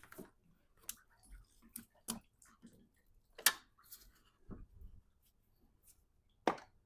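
Irregular clicks and knocks of parts being worked and pried at by hand while removing a truck radiator, with the part stuck fast. The two loudest knocks come about halfway through and near the end.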